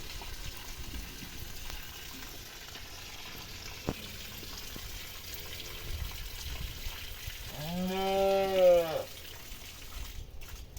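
A cow mooing: one long, loud call about a second and a half long near the end, with a short, faint call a couple of seconds before it.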